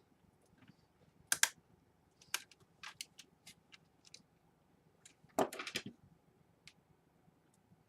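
Irregular sharp clicks and taps of small plastic and metal laptop parts being handled and fitted, with a quick run of clicks about five and a half seconds in.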